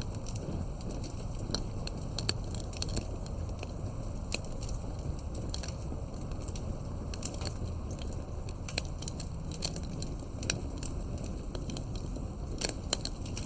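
Campfire burning: irregular sharp crackles and pops of the burning wood over a steady low noise of the flames.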